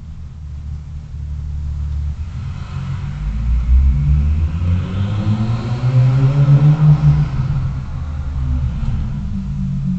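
A motor vehicle's engine accelerating, its pitch rising over about four seconds in the middle and then easing off, over a steady low road rumble.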